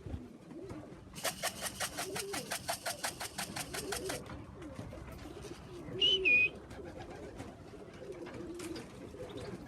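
Pigeons cooing, low wavering calls through the whole stretch. A rapid, even rattle of about eight strokes a second runs for some three seconds near the start, and one short high chirp comes about six seconds in.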